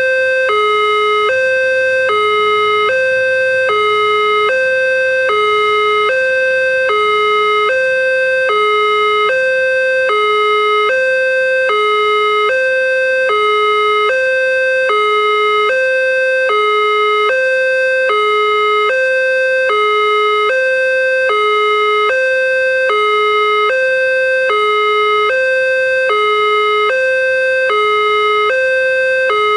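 Railway level-crossing warning alarm sounding continuously, an electronic two-tone high-low signal that switches pitch about every half second, warning that a train is approaching and the barriers are down.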